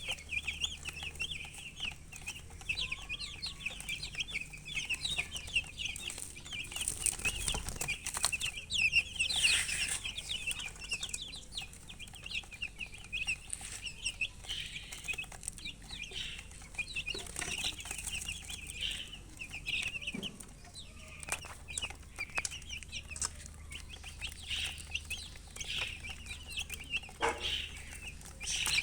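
A flock of baby chicks peeping constantly, many short high chirps overlapping, with a few sharp clicks among them. The title gives thirst for water as the cause of the chirping.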